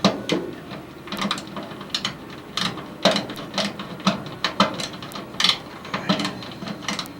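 Small hand ratchet turning a screw, its pawl clicking in irregular strokes, roughly one or two clicks a second.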